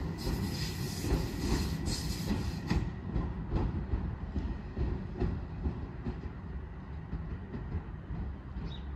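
Railway wagons rolling past, their wheels knocking irregularly over rail joints above a steady rumble; the sound is brighter for the first three seconds or so, then duller.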